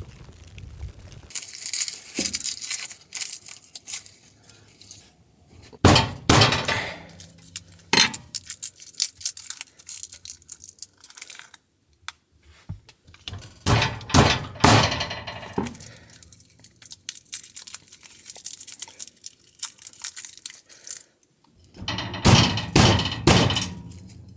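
Objects being handled, with repeated knocks, thuds and glassy clinks, like dishes or glassware being set down and moved about.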